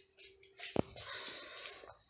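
Paper rustling as a book page is handled and turned, with a single sharp tap a little under a second in.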